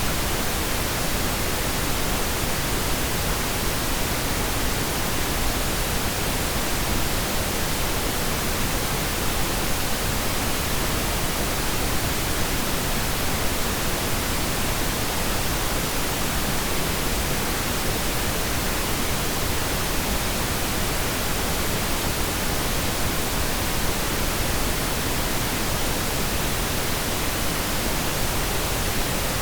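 Steady, unchanging pink noise: an even hiss spread across the whole range, with no breaks or events.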